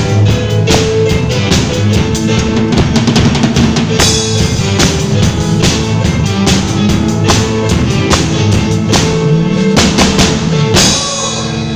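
Live band playing an instrumental passage at rehearsal, led by a drum kit with a steady beat over bass and sustained keyboard or guitar notes. A cymbal crash rings out near the end.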